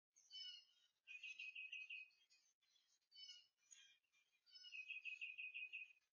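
Faint songbird song: two rapid trills of quickly repeated notes, each about a second long, one just after the start and one near the end, with shorter chirped phrases between.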